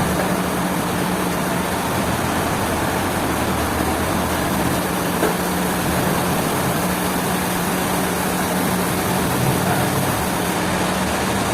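A heavy engine running steadily at constant speed, with a low, even hum.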